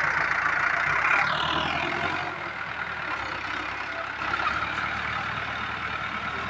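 Tractor diesel engine running steadily, with a short falling whine about a second in.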